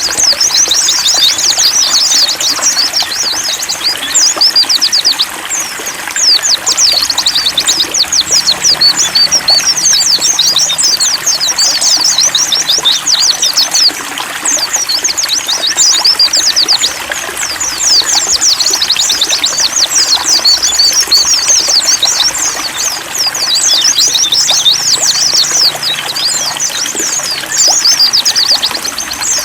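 Several white-eyes (pleci) singing fast, dense twittering songs over a steady trickle of running water.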